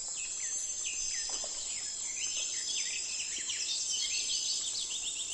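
Ducklings peeping: many short, high, downward-sliding peeps, with a steady high chirring of crickets behind them.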